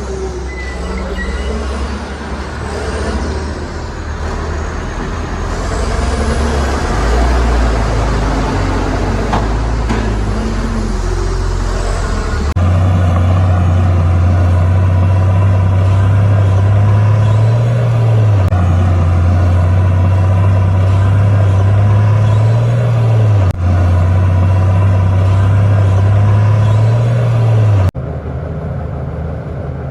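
Heavy diesel engines of earthmoving machines running, in several cut-together clips. In the longest clip the engine holds a steady note and briefly rises in pitch about every five seconds.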